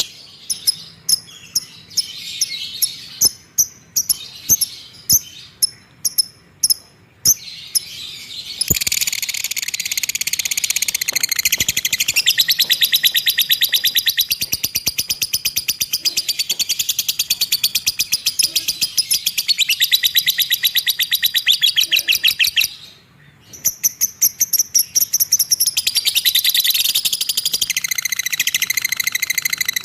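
Cage bird singing: a string of sharp, evenly spaced high chirps, then from about nine seconds in a long, very rapid chattering trill that stops for about a second two-thirds of the way through and starts again.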